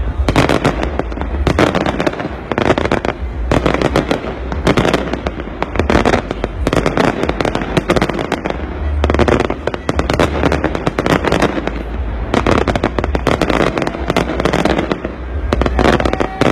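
Fireworks going off in a dense barrage: rapid crackling and popping bursts one after another over a continuous low rumble.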